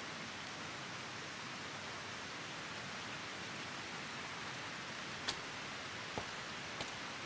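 Steady even hiss of background ambience, with a few faint clicks about five to seven seconds in.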